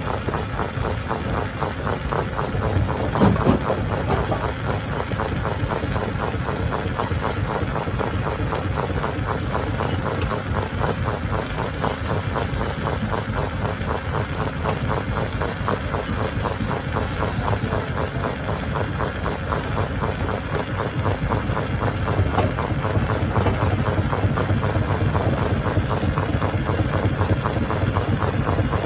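Stone crusher machine running steadily, a loud mechanical drone with a rapid even pulse; one louder knock about three seconds in.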